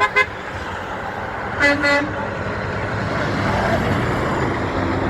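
A single short vehicle horn beep about a second and a half in, followed by the steady noise of passing road traffic growing louder.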